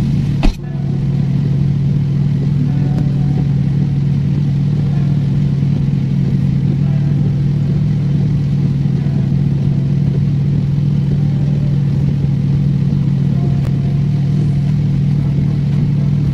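Car engine idling, heard from inside the cabin as a steady low hum. There is a single sharp knock about half a second in.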